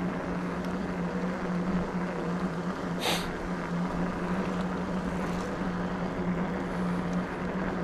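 Electric bike's motor humming steadily under way, over a constant rush of tyre and wind noise. A short hiss comes about three seconds in.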